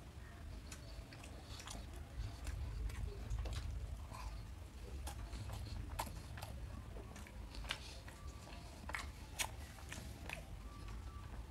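A person biting into and chewing a breadcrumbed fried snack close to the microphone, with many small, irregular crisp crunches and wet mouth clicks over a low steady hum.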